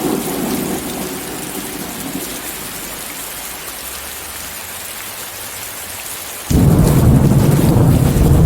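Steady heavy rain hiss with thunder. A rumble dies away in the first second or two, then a loud, deep thunder rumble starts suddenly about three-quarters of the way through.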